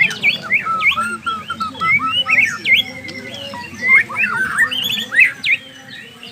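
A murai, a Copsychus songbird, singing a fast, varied run of whistled notes that sweep up and down in pitch, with hardly a pause.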